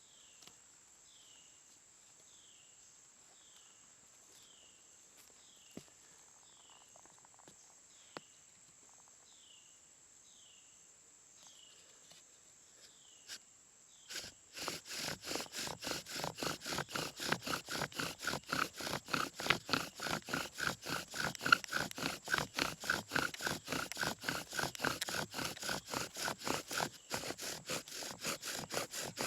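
A bow drill: a hemlock spindle is driven back and forth on a hemlock hearth board, starting about halfway through with quick, even strokes and a rubbing, squeaking tone. Before it, only a faint steady insect hiss and a repeated falling chirp are heard.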